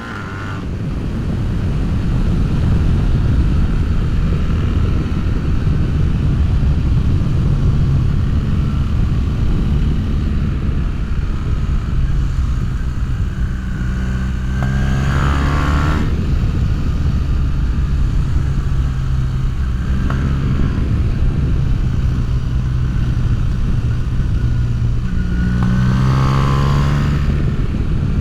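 BMW R1300GS boxer-twin engine running through an Akrapovič full exhaust system with decat mid-pipe, heard while riding on the road. It fades in, then holds a steady, loud note over a rush of noise, with the engine note changing pitch about halfway through and again near the end.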